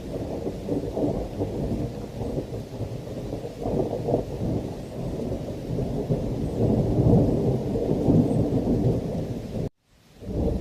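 Thunderstorm: long rolling thunder rumbling over heavy rain, swelling louder around the middle. Near the end the sound cuts out for a moment and then comes straight back.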